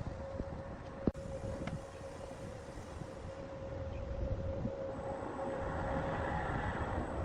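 Woodturning lathe running: a steady motor whine over a low rumble, with one sharp click about a second in.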